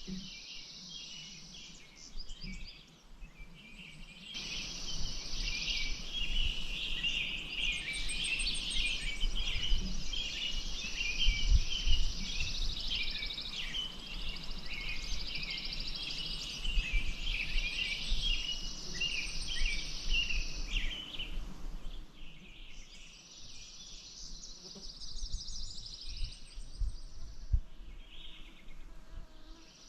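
Many songbirds chirping and twittering continuously, over a steady rush of water that swells in about four seconds in and drops away about 22 seconds in.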